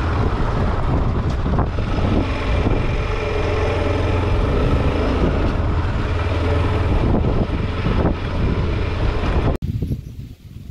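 Honda Falcon 400 motorcycle's single-cylinder engine running steadily while riding, with wind buffeting the microphone. Near the end it cuts off abruptly to much quieter wind.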